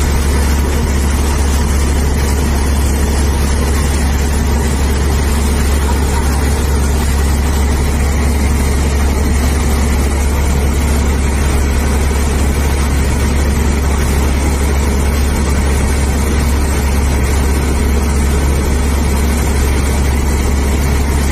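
Combine harvester's engine running steadily: a loud, constant low drone that holds at the same level and pitch throughout.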